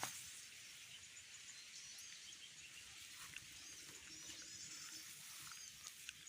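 Faint, high bird chirps repeating over quiet outdoor background hiss.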